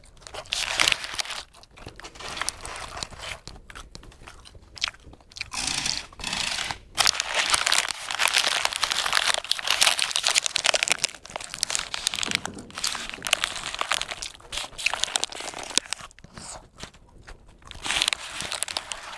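Close-up biting and chewing of a crunchy fried snack, in irregular bouts of crunching with short pauses, with the paper tissue around it crinkling.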